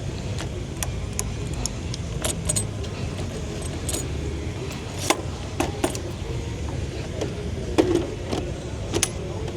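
Keys jangling in scattered sharp metallic clicks over a steady low car rumble.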